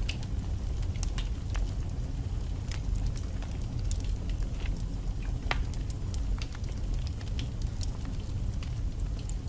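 Wood fire burning in a fireplace: a steady low rumble of flames with irregular crackles and pops from the logs, one sharper pop about five and a half seconds in.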